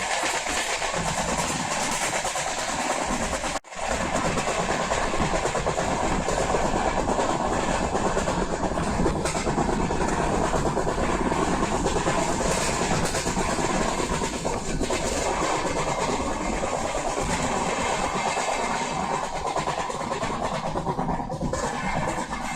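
Passenger train running along the track, heard from on board: a steady rumble and rattle of the wheels and coaches on the rails. The sound cuts out for an instant about three and a half seconds in, then carries on.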